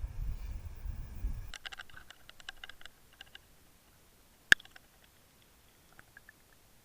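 A low rumble that cuts off suddenly, then a run of quick small clicks and a single sharp click.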